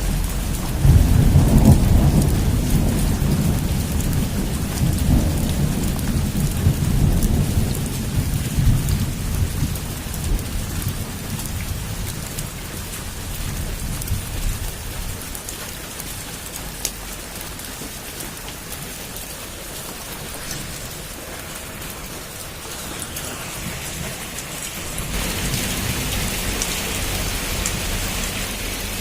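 Heavy rain pouring steadily, with a long peal of thunder that breaks about a second in and rumbles away over roughly ten seconds. Near the end the rain grows heavier.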